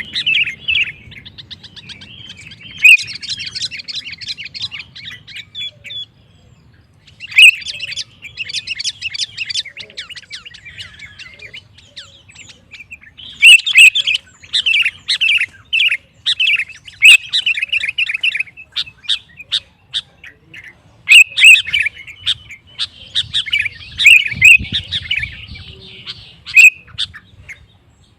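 Sooty-headed bulbul (kutilang) singing in full voice, in bursts of rapid chirping phrases a few seconds long with short pauses between them. It is the excited song used to provoke rival bulbuls into answering.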